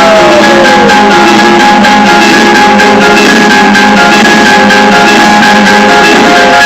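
Music played very loud through a Maguchy car audio system, steady drums under held notes, with a falling glide in the first second.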